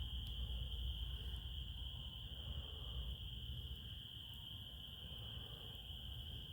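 Crickets trilling in a steady, unbroken chorus at one high pitch, over a low rumble.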